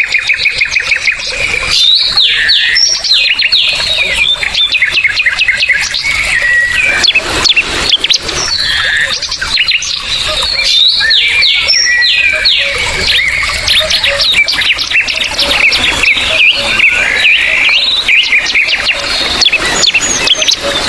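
Many birds chirping and calling at once, a dense overlapping chatter of short, quick sweeping notes, with a fast trill near the start.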